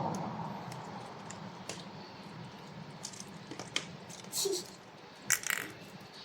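Faint handling noises: a few separate light clicks and soft squishy sounds, with a short hissy burst about five seconds in.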